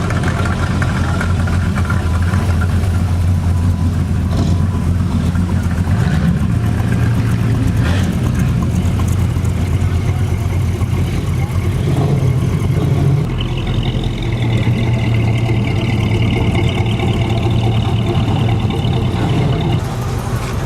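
Car engine running steadily at idle, its pitch stepping a few times as it is blipped. A higher wavering sound joins for several seconds in the second half.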